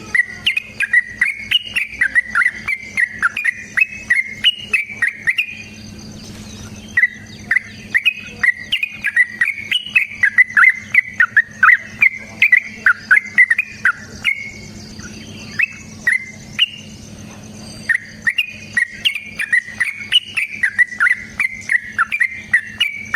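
Yellow-vented bulbul (trucukan) singing long, fast runs of bubbly chirping notes in bursts of several seconds with short breaks. This is the rapid 'ropel' song used as a fighting or lure call. Faint rapid high ticking, like insects, and a low hum run beneath it.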